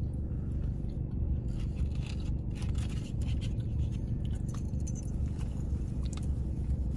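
Someone chewing and biting into a doughnut, with soft scrapes and clicks scattered through the middle, over a steady low hum.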